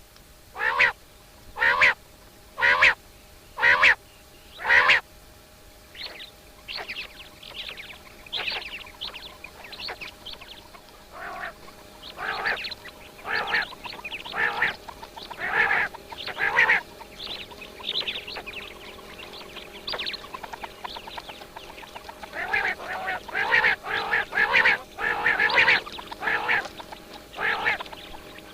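Birds calling: five loud calls about a second apart, then many fainter overlapping calls from several birds.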